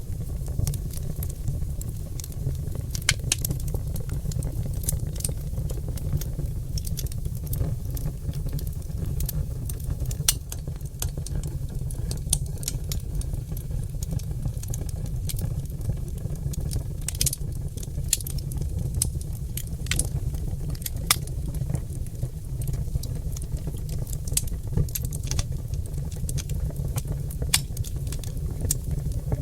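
Oak log fire crackling, with irregular sharp pops and snaps over a steady low rumble.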